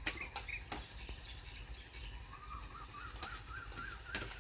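A bird calling: a run of quick wavering notes from about halfway through, rising slightly in pitch. Scattered soft clicks and taps also sound throughout.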